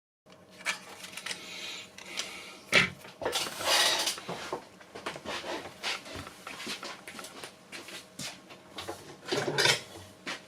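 Small hard objects being handled: irregular clicks, knocks and clatter, with short scraping rustles about three and four seconds in and again near the end.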